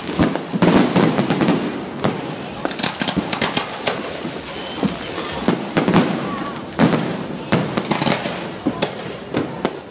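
Fireworks going off in quick, irregular succession: many sharp bangs and crackles, with people's voices underneath.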